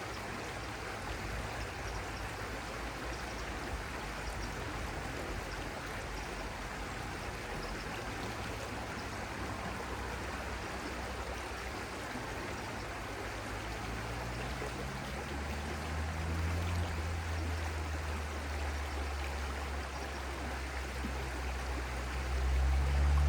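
Stream flowing steadily. About two-thirds of the way in, a low hum comes in and grows louder toward the end.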